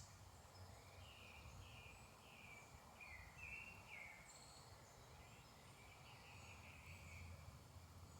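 Faint woodland songbirds in a morning chorus. One bird sings a run of short, downward-sliding notes from about a second in, and a twittering phrase comes near the end, with thin higher calls from other birds over a steady low rumble.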